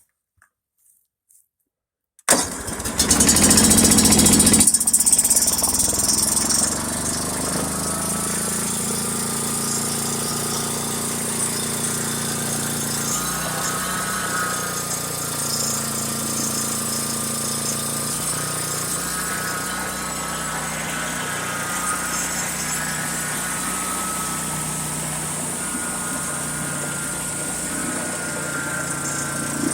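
DR wood chipper's gas engine cranked on the key and catching about two seconds in, running loud for a few seconds before settling into a steady run. It starts now that the safety switch is tightened down, which the owner takes for the cause of the earlier no-start.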